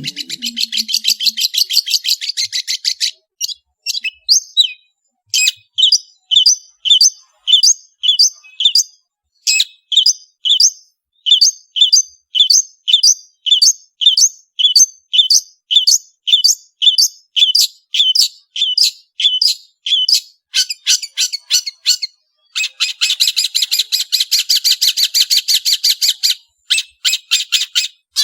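Long-tailed shrike (cendet) singing: a fast chattering trill, then a long run of short, sharp, high notes at about two a second, then another dense chatter near the end.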